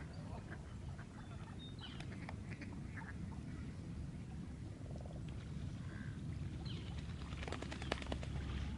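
Wetland birds calling in short, scattered notes over a steady low rumble, with a cluster of sharp clicks near the end.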